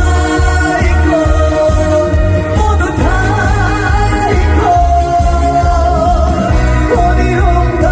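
Trot song performed live: a singer holds long, wavering notes over a backing track with a steady, pulsing bass beat.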